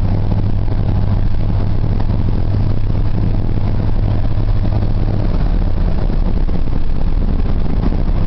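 Ford 4.9 L (300 cubic inch) straight-six engine of a 1990 F-150 pulling steadily at cruising speed, a low even drone that eases a little about five seconds in, over a constant hiss of tyre and road noise on a dirt road.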